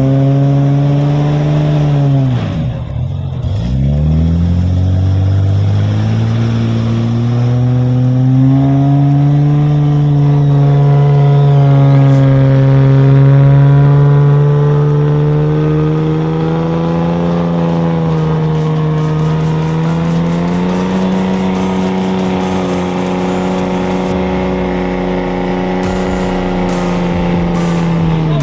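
Off-road 4x4 engine revving hard under sustained load. About three seconds in the revs drop sharply and pick straight back up, then the engine holds high revs that creep slowly higher.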